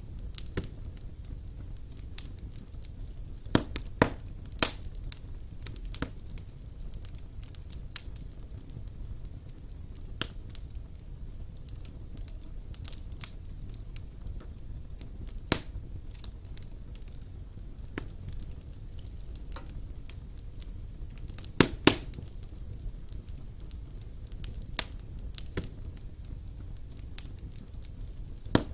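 Wood fire burning in a fireplace: a steady low rumble with scattered sharp crackles and pops from the burning logs, the loudest a quick pair about three quarters of the way through.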